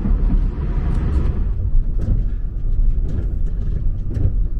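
Yufuin no Mori diesel sightseeing train running along the line, heard from inside the carriage: a steady low rumble with a few light knocks.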